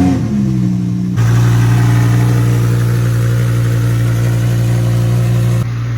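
Twin-turbo Lamborghini Huracán V10 cold-starting: the engine catches with a brief rising flare of revs, then settles into a loud, steady fast idle that gets louder about a second in.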